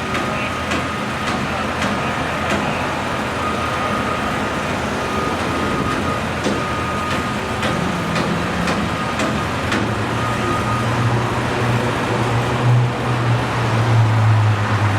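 Steady road traffic noise, with a low engine hum that grows louder over the last few seconds.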